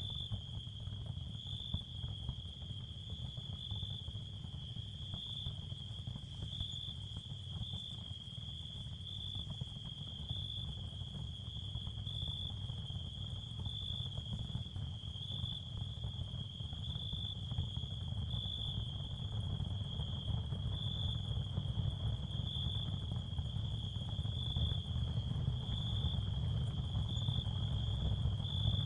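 Ambient sound-therapy soundscape: a steady high, insect-like chirring that swells every second or two, over a continuous low rumble that grows a little louder toward the end.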